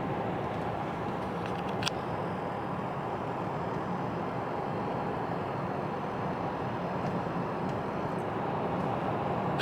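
Steady road and engine noise of a car being driven, heard from inside the car, with a single sharp click about two seconds in.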